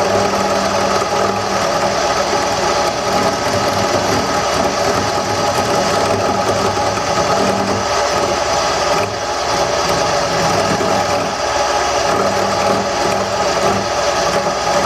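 Wood lathe running with a steady motor hum while a roughing gouge cuts lightly into the spinning wooden blank, rounding it into a cylinder.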